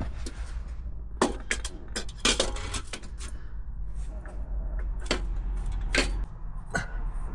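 Irregular sharp knocks and clinks of metal exhaust parts and tools being handled during the removal of a motorcycle's exhaust resonator box, about seven in all, over a steady low hum.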